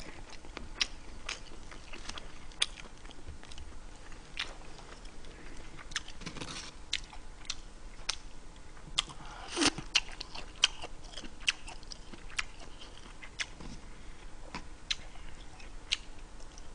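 Close-miked chewing and mouth sounds of a person eating spicy stir-fried squid with rice, with many scattered sharp clicks and smacks.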